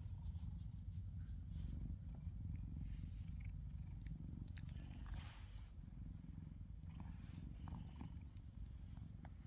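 Domestic cat purring close up: a low, steady rumble, with a few faint rustles and clicks.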